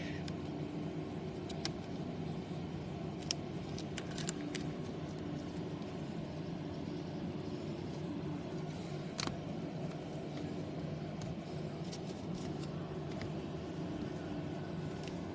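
Steady low background hum with faint, scattered clicks and light rustles, from trading cards and their plastic sleeves being handled.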